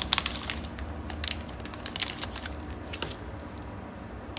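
Handling noise from a Zippo lighter's metal case: clusters of sharp clicks and taps, thickest near the start and again about a second in, around two seconds in and about three seconds in.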